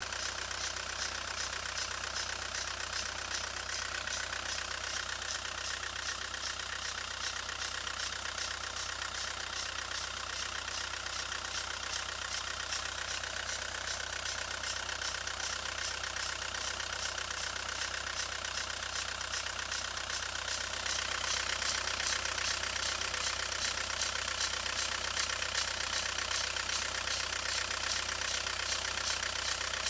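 VW T3 Vanagon 1.6 turbodiesel engine running at idle with a fast, even ticking clatter, the noise the owner calls strange. It gets slightly louder about two-thirds of the way through.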